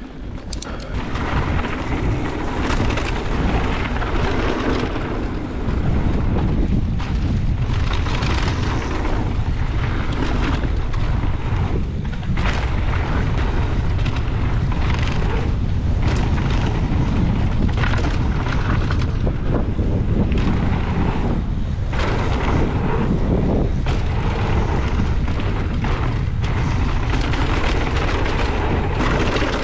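Strong wind buffeting the microphone of a mountain biker riding a fast trail: a steady low rumbling roar with no break.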